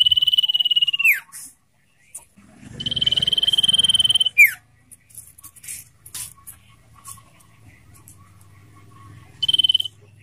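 Common iora singing: long, rapid trilled whistles held at one high pitch, each ending in a sharp downward slur. One ends about a second in, a second runs through the middle, and a short one comes near the end, with soft chips between.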